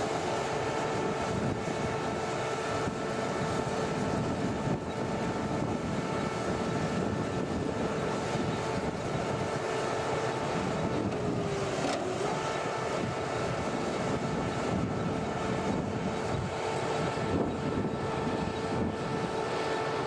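A machine's engine running steadily, with a constant whine over the noise that breaks off briefly about halfway through and then returns.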